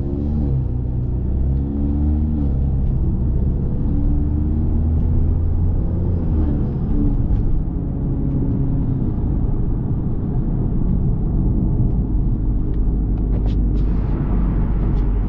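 Tuned Volkswagen Golf R's turbocharged four-cylinder engine heard from inside the car while driving. The engine note shifts in pitch over the first few seconds, then settles into a steady low rumble with road noise. There are a few light clicks near the end.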